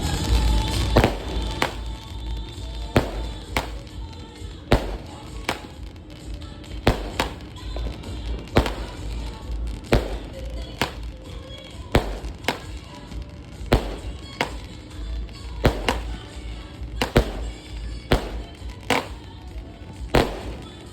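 Homemade pre-set fireworks rack firing shells one after another: a sharp bang roughly once a second, over a steady low rumble.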